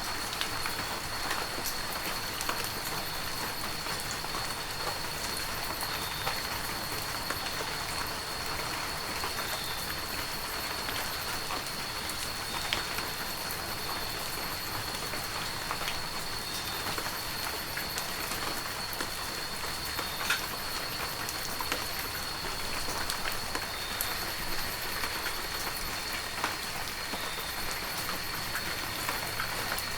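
Heavy rain falling steadily, with scattered drops tapping distinctly. A thin, steady high-pitched tone runs beneath it.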